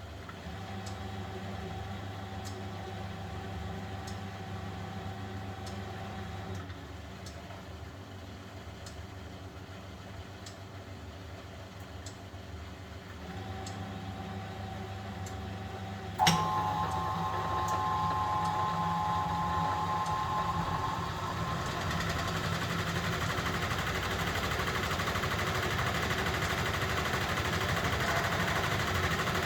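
1971 Constructa Garant 491 washing machine running its drum motor in bursts with a pause between. Faint ticks come about every second and a half. About halfway through, a sharp clunk is followed by a louder, faster motor run that slowly builds in loudness.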